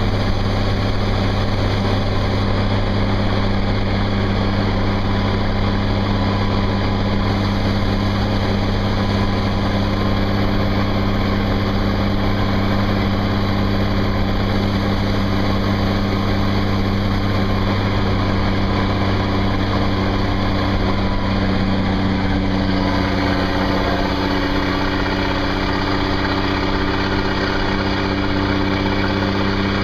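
Turbocharged LDT-465 inline-six multifuel diesel of an M342A2 military 2½-ton dump truck running steadily under load, pulling a small hill half loaded. The engine note shifts slightly about two-thirds of the way through.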